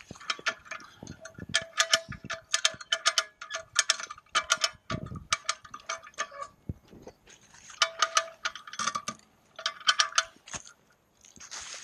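Hand-cranked come-along winch being ratcheted: quick runs of ringing metallic clicks as the pawl works over the ratchet gear, with a short pause partway through.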